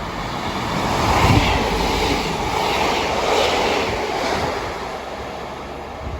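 A train passing on the line, with a broad rush of wheel and rail noise that swells about a second in and slowly eases off.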